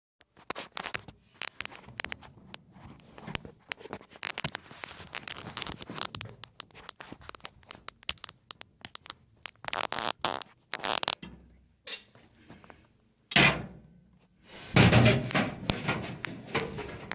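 Wood fire in a fireplace crackling and popping with irregular sharp snaps, then louder knocks and close rustling noise over the last few seconds.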